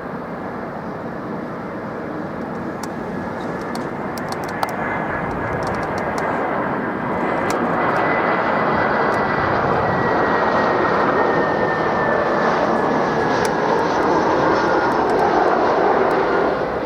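Jet airliner passing overhead with a steady engine roar that swells over the first several seconds, holds, then eases near the end, with a faint high whine that slides slowly down in pitch.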